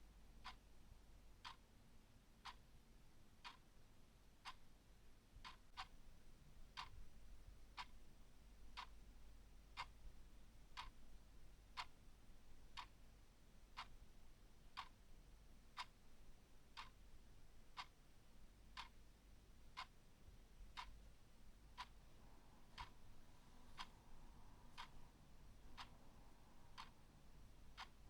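A clock ticking quietly and steadily, about one tick a second, over a faint low hum.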